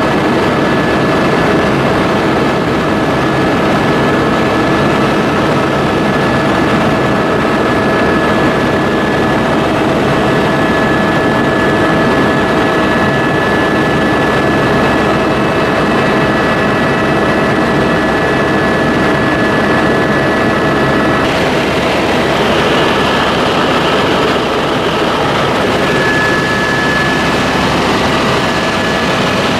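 Steady, loud engine drone with several constant tones over it, like vehicle or aircraft cabin noise. The mix of tones shifts slightly about two-thirds of the way through.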